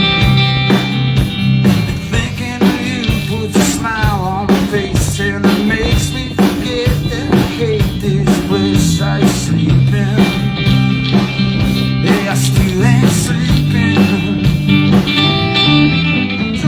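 Live rock band playing an instrumental passage: a guitar lead with bending notes over a walking bass line and a steady drum-kit beat.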